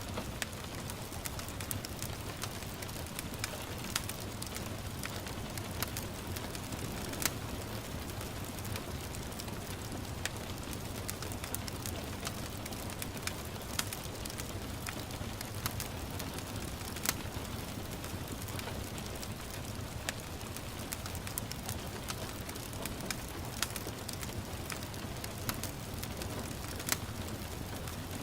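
Wood fire crackling in a fireplace, with irregular sharp pops every second or two, over a steady hiss of gentle rain and a low rumble.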